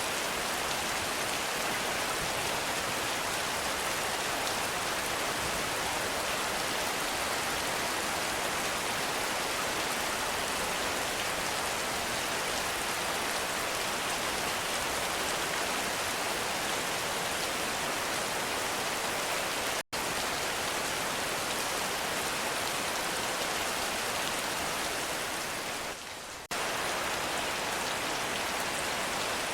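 Heavy rain falling steadily, an even hiss of drops. It cuts out for an instant about two-thirds of the way through and dips briefly a few seconds later.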